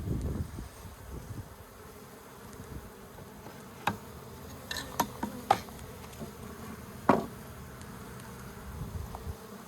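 Honeybee colony buzzing steadily, with a few sharp knocks and clicks near the middle, the loudest about seven seconds in.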